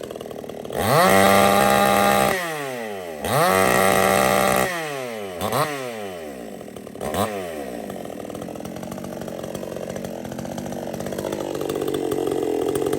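Supmix 54cc two-stroke clone chainsaw revved to full throttle twice, about a second and a half each time, dropping back to idle after each. Two short throttle blips follow, and then it settles into a steady idle.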